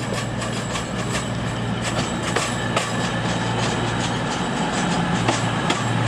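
Class 220 Voyager diesel multiple unit running, with a steady low diesel-engine hum and scattered sharp clicks.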